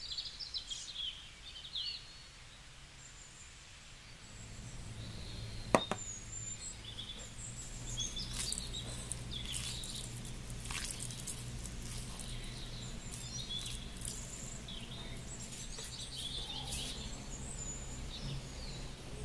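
Small birds chirping and calling over a quiet background, with a low steady hum coming in about four seconds in. A single sharp click sounds near the six-second mark, with a few fainter clicks later.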